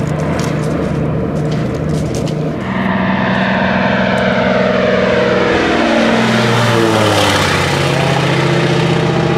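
Floatplane's propeller engine running loudly, with scattered clicks in the first two seconds. About three seconds in it grows louder, and from about four to eight seconds in its pitch drops steadily, as of the plane going past.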